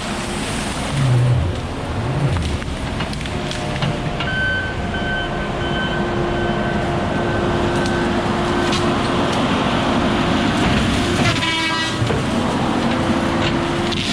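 Heavy diesel logging equipment running steadily, with a brief rapid rattle about eleven seconds in.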